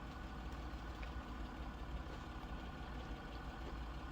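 Faint, steady low hum of an idling vehicle engine.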